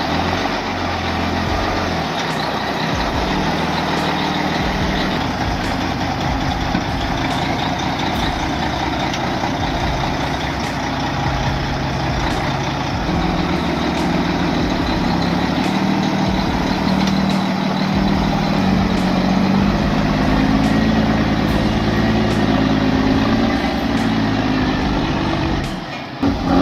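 Heavy truck engine running hard under load, its pitch rising and falling as the revs change, with a brief break near the end.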